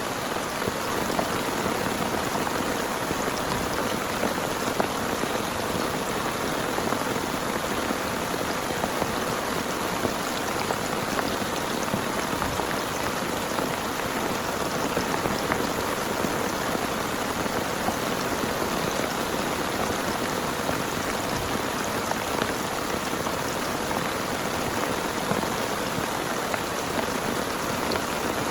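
Heavy rain falling steadily, a dense, even patter of drops striking a surface, with occasional louder individual drop hits.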